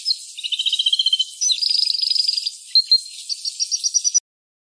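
Canary singing: rapid trills and quick runs of repeated high notes, cutting off suddenly near the end.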